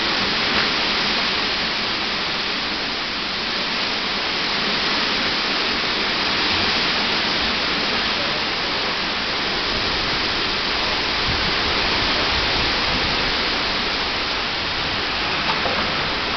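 Strong storm wind blowing hard and steadily, a dense rushing noise that eases a little and swells again.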